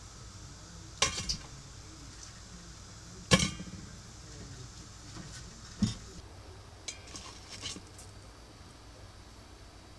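A few sharp clinks and knocks of tableware being handled, the loudest about three seconds in, with lighter ticks near the end.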